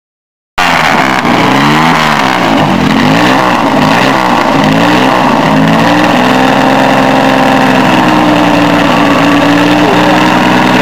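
Jaguar E-type Lightweight racer's straight-six engine being blipped, the revs rising and falling several times, then settling into a steady, even running speed. The loud engine sound cuts in about half a second in.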